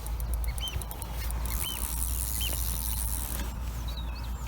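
A small bird calling outside, short rising-and-falling chirps repeated about once a second, over a steady low rumble and a few faint clicks.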